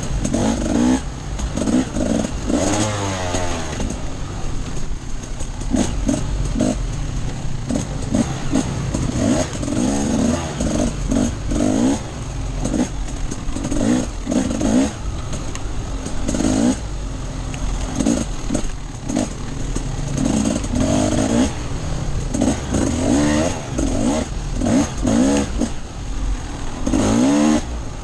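Off-road enduro motorcycle engine under way, its pitch rising and falling over and over as the throttle is opened and closed.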